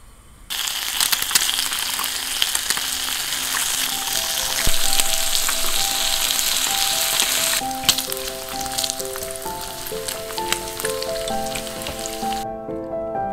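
Egg and bacon sizzling in hot oil in a KitchenArt two-compartment nonstick egg pan. The sizzling starts suddenly about half a second in, is loudest in the first half, goes on softer and cuts off near the end. Soft piano music comes in partway through.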